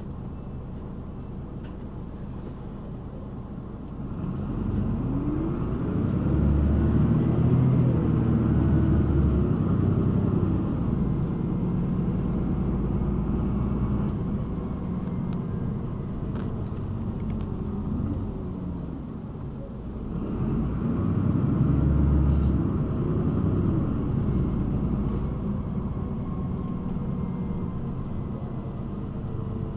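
City bus engine and road noise heard from inside the cabin. The engine runs low and steady at first, then pulls away about four seconds in, its note rising and dropping through the gear changes. It eases off near twenty seconds and accelerates again the same way.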